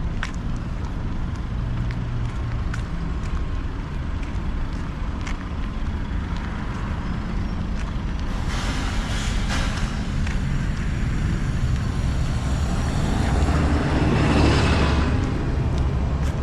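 Road traffic: a steady low rumble of engines, with vehicles swishing past close by twice in the second half, the louder pass about fourteen seconds in. Faint footsteps tick about once a second.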